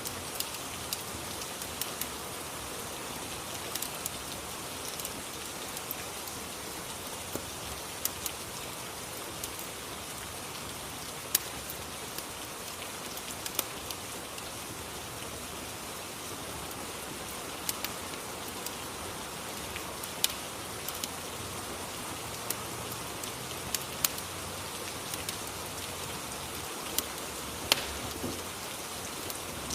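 Rain and fireplace ambience: a steady hiss of rain with scattered, irregular sharp pops and crackles.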